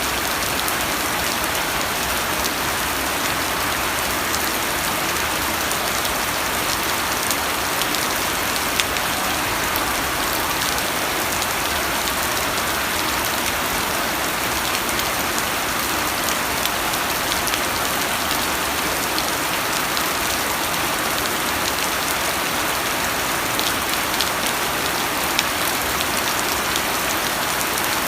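Steady rain falling, an even hiss with scattered small drop ticks and no break.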